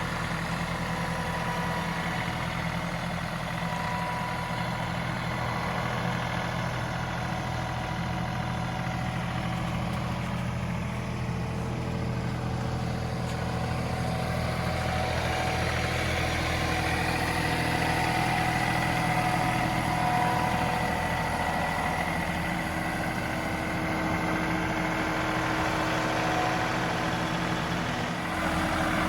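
John Deere 2038R compact tractor's three-cylinder diesel engine running steadily, with a higher whine growing stronger about halfway through.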